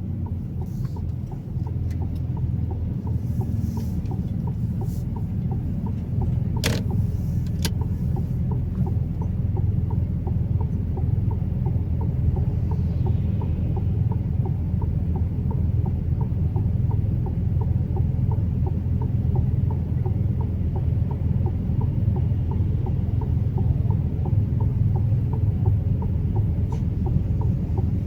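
Truck running on the road, a steady low drone of engine and road noise, with one sharp click about seven seconds in.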